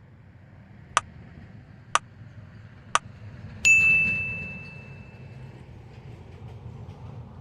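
Three sharp ticks a second apart, then a single bright metallic ding that rings out and fades over about two seconds.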